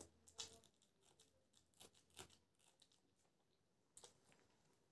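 Close-miked eating sounds: crisp snaps and crunches of a raw green chilli being bitten and chewed, as several separate sharp cracks between softer mouth clicks.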